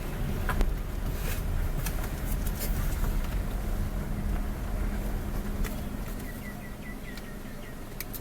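Steady low rumble of vehicle engine and road noise with a constant hum, a few sharp clicks, and a short run of five or six high chirps near the end.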